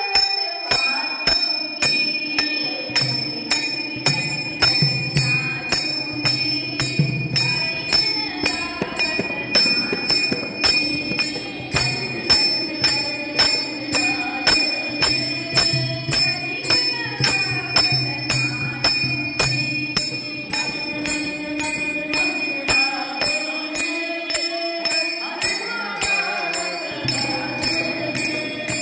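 Marathi bhajan music: a gaulan sung to a melody, with small hand cymbals striking about twice a second and a drum keeping the beat under held tones.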